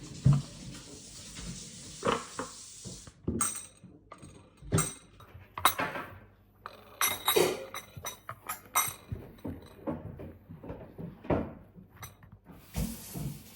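Scattered clinks and knocks of crockery and cutlery being handled, a dozen or so short, sharp strikes, some with a brief ring.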